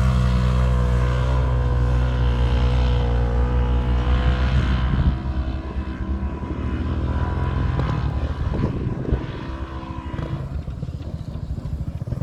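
Dirt bike engine running steadily, then dropping in level and turning rougher and more uneven after about five seconds.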